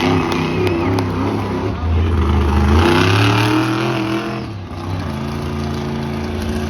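Monster truck engine revving: the pitch climbs about three seconds in, falls away sharply a second or so later, and the engine then runs on at a steady lower note.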